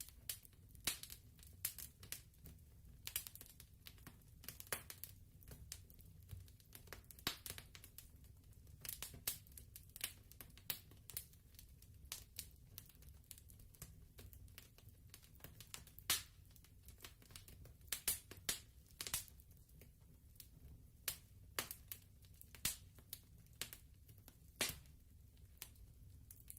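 Soft fireplace crackle: a wood fire popping and snapping at irregular intervals over a low, steady rumble.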